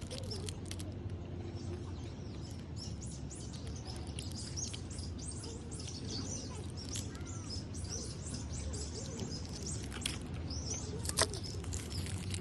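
Birds chirping over a steady low hum, with one sharp click near the end.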